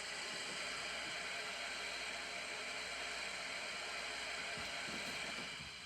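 Recorded steam-locomotive blower sound from a LokSound V4.0 Select decoder, played through the model Shay's small speaker: a steady hiss that fades out near the end.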